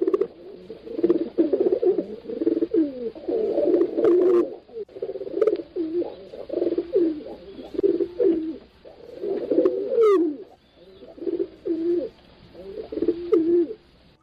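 Several pigeons cooing, their low coos overlapping one after another with short breaks, and a brief high chirp about ten seconds in.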